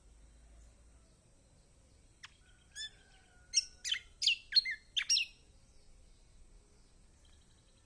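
Kecial kombok (yellow white-eye) calling: two soft notes, then a quick run of about six sharp, downward-sweeping chirps lasting under two seconds.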